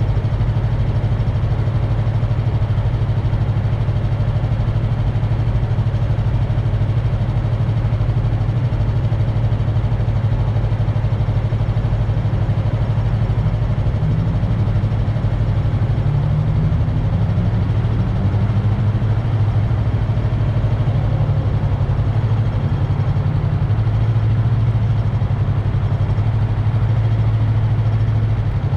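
Yamaha MT-03 motorcycle engine running steadily, with a gentle rise and fall in pitch around the middle.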